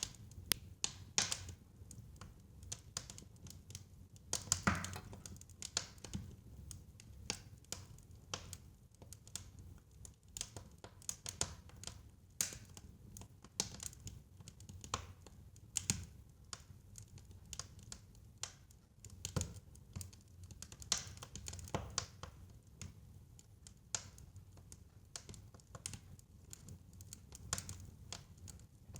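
Fireplace fire crackling: irregular snaps and pops, several a second, with a few louder pops, over a low steady rumble.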